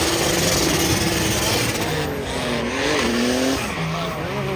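Car engine revving up and down hard with tyres squealing under wheelspin, as in a burnout.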